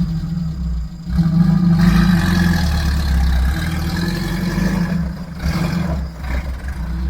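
Off-road vehicle engine running steadily under load on rough ground, picking up about a second in, with a brief drop about five seconds in.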